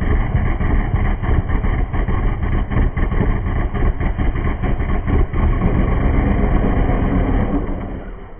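Drag race car's engine idling loud with a choppy, uneven lope, then fading away near the end.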